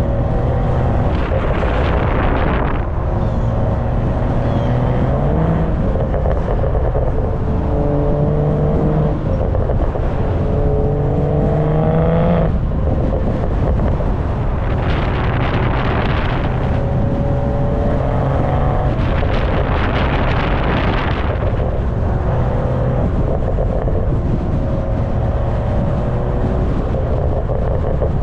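BMW M340i's turbocharged 3.0-litre B58 inline-six heard from the rear of the car while driving, its exhaust note climbing in pitch through the revs and dropping back several times. Heavy wind noise buffets the microphone throughout, with a few loud rushes of noise.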